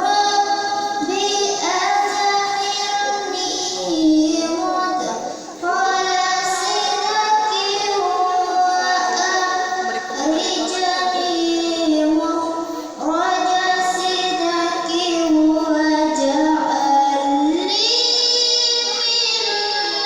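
A young girl's voice chanting Quranic recitation (tilawah) in long, ornamented held notes, in three phrases with short breaks for breath.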